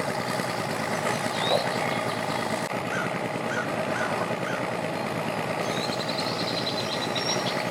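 Boat engines idling and running steadily. Four short high chirps come about half a second apart around the middle.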